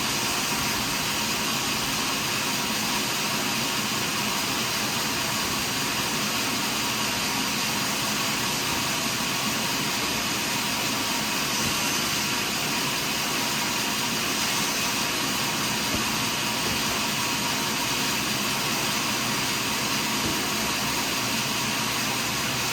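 Sawmill saw running steadily through a large log, a continuous mechanical noise with a strong high hiss.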